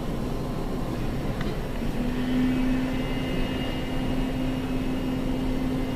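Jet aircraft engines rumbling steadily, with a steady low hum joining about two seconds in.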